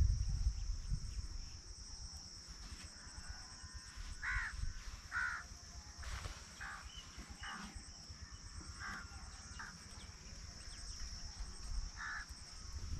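Birds calling outdoors, short separate calls about every second from about four seconds in, over a steady high-pitched drone.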